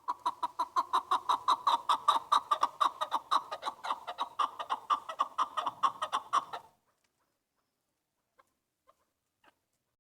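Chukar partridge calling: a fast, even run of clucking notes, about five a second, that stops abruptly about two-thirds of the way through, leaving only a few faint clicks.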